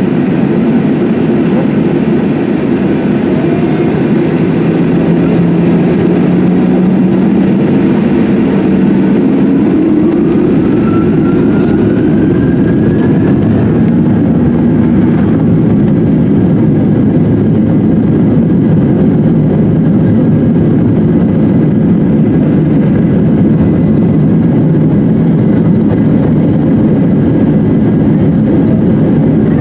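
Cabin noise of a Boeing 737-800 during takeoff: its CFM56-7B jet engines at high thrust, with airflow and rumble heard through the fuselage as a loud, steady roar. A faint tone rises partway through.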